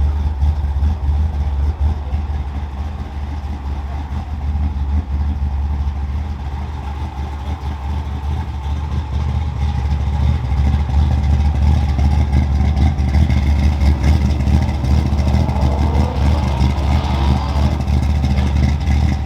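Car engines running at a car show, a steady deep rumble that grows louder about halfway through, with engine revs rising in pitch near the end.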